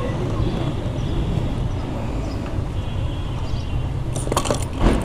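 Steady low rumble of wind and road noise on the microphone of a Yamaha R15 motorcycle on the move, with a few sharp knocks near the end.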